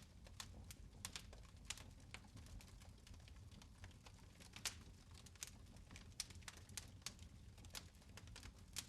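Fire in a fireplace crackling faintly: irregular sharp pops and snaps, several a second, over a low steady rumble.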